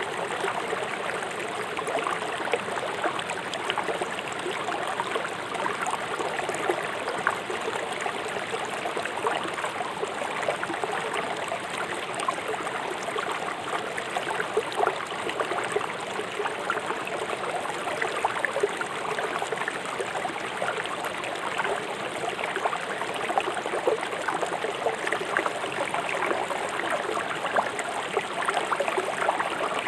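River water rushing and splashing over stones, a steady burble dotted with many small splashes.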